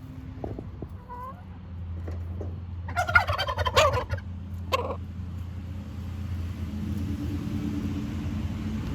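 A turkey tom gobbles once loudly in a rapid warbling rattle, then gives a shorter second call. A low steady rumble grows louder toward the end.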